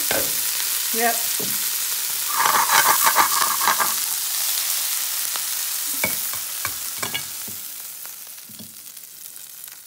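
Lamb chops and purple sprouting broccoli sizzling in hot butter and meat juices in a pan, a steady fat hiss that grows louder and rougher for a second or two. A few knocks follow as the pan is tipped out onto a plate, and the sizzle fades away near the end.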